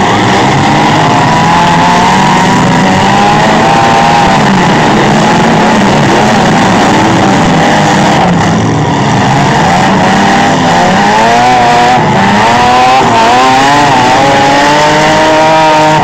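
Several demolition derby trucks, vans and SUVs revving their engines at once, the pitches rising and falling against each other as they drive and manoeuvre.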